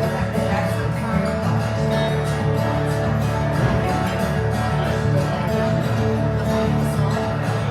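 Live acoustic guitar music, strummed in a country style, with a steady rhythm.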